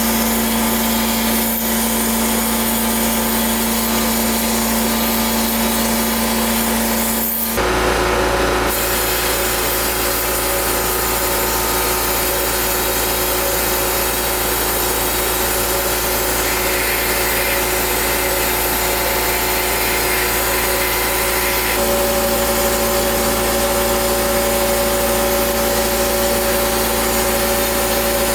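A power tool's motor running steadily while it abrades metal vise parts, most likely a wire wheel scrubbing off rust. The sound breaks off and picks up again about seven and a half seconds in, and its steady hum changes pitch a little past twenty seconds.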